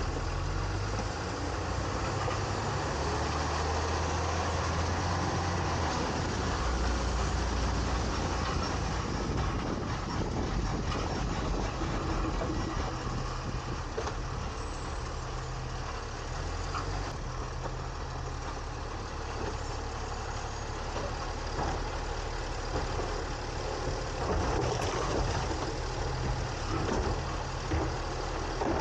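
Refuse truck's engine running, heard from inside the trash hopper (a 2022 Autocar ACX carrying a New Way Sidewinder side-loader body). It runs steadily, with its pitch shifting up and down a few times in the first several seconds.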